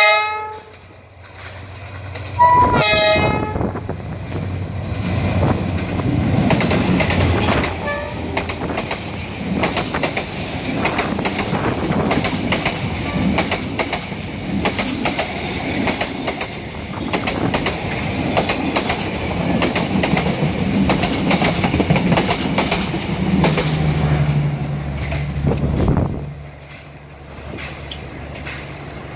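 Vietnam Railways SE4 passenger train passing close by. Its diesel locomotive sounds two short horn blasts in the first three seconds and then runs past, followed by a long string of coaches with a steady clatter of wheels on the rails. The clatter fades after about 26 seconds as the train draws away.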